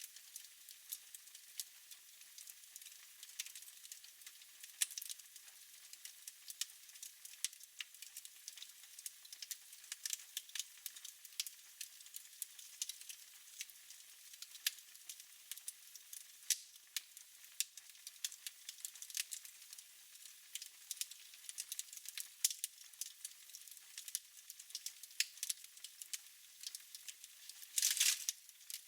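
Wood fire burning in a fireplace, crackling with many small sharp pops and snaps at an uneven rate. Near the end there is a brief louder hiss.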